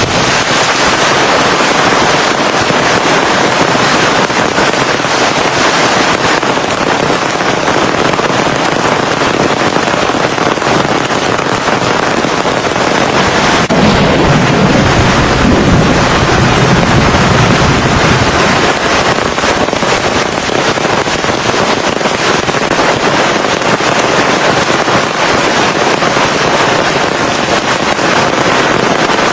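Heavy rain pouring steadily, with a low rumble of thunder about halfway through.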